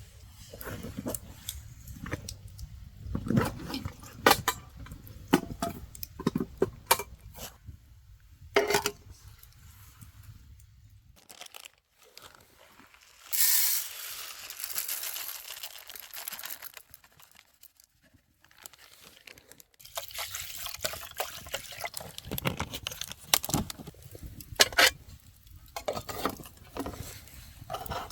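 Camp cooking and drinking sounds: many sharp clicks and knocks of cookware handling, with liquid pouring. About thirteen seconds in comes a sudden loud hiss that fades over a few seconds.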